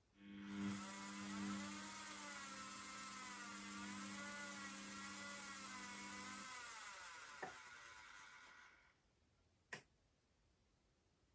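Beko washing machine running briefly. The sound has a steady hum and a wavering whine over a hiss, starting suddenly and dying away after about nine seconds. It is followed by a click and a sharp clack near the end.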